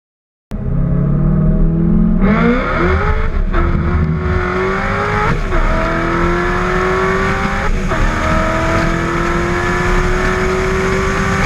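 Fully forged 383 Gen 4 LS V8 in a 1988 Jeep Comanche accelerating hard, cutting in suddenly half a second in. Its pitch climbs, drops back at three upshifts of the 4L80 automatic, then climbs steadily again.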